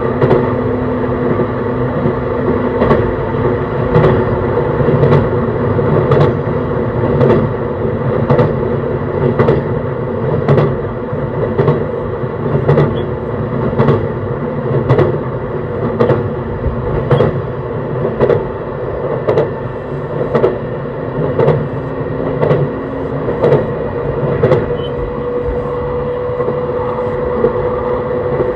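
Interior running sound of a JR East E131 series 600-subseries electric train at steady speed: the wheels click over rail joints about once a second over a steady hum of running gear and traction motors. A level motor tone grows steadier and louder near the end.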